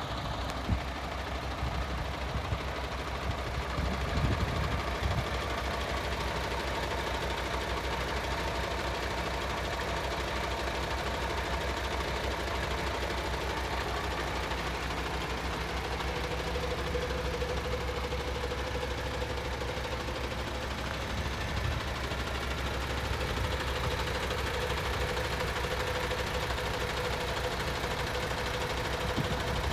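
MAN TGX 26.460 tractor unit's 12.4-litre straight-six diesel idling steadily.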